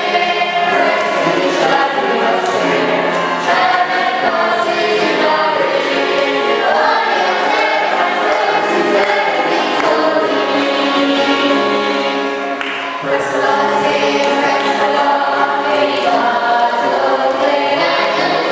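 Choir singing a sacred song, steady and full, with a brief dip in loudness about thirteen seconds in.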